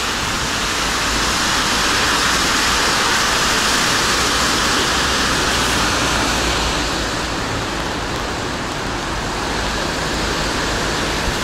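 Steady rushing noise of a rainy city street: rain and car tyres on wet asphalt, easing a little after about seven seconds.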